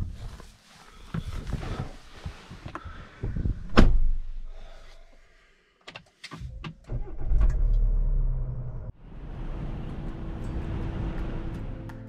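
Jeep Renegade Trailhawk driving over rough off-road ground: irregular knocks and thumps from the body and suspension, with a sharp bang about four seconds in. A heavy low rumble of the car follows and cuts off suddenly about nine seconds in.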